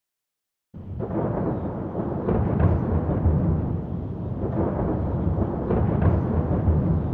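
Rumbling thunder sound effect that starts suddenly just under a second in and runs on steadily, with a few faint sharper cracks in the rumble.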